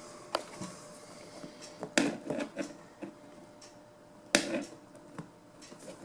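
A few sharp clicks and knocks from working a seat cover, three louder ones about two seconds apart.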